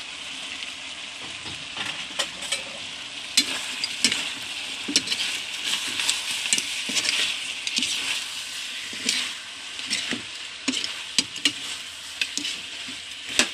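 Food sizzling in a frying pan as it is stirred: a steady frying hiss with a utensil clicking and scraping against the pan many times, busier after about two seconds in.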